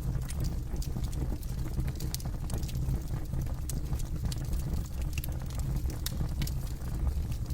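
Campfire burning with a steady low rumble of flames and frequent irregular sharp crackles and pops from the burning wood.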